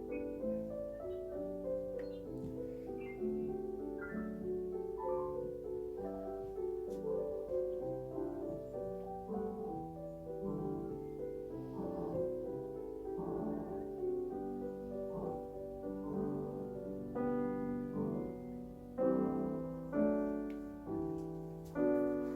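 Yamaha Clavinova CLP-300 digital piano being played: a slow melody over chords, with a few louder, harder-struck chords near the end.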